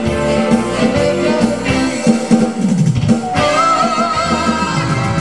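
Instrumental break of a pop band song with guitar and drum kit, without singing; about three and a half seconds in a lead melody comes in with a wavering, held note.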